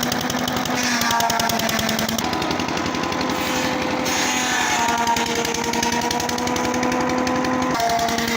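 Sisal fibre decorticating machine running, a very rapid rattling pulse over a steady motor hum, its tone shifting abruptly about two seconds in and again near the end.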